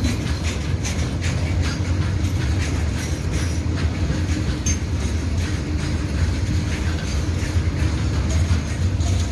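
Loaded BCNHL covered freight wagons rolling slowly over the rails, with a steady low rumble and frequent, irregular clacks of wheels passing over rail joints.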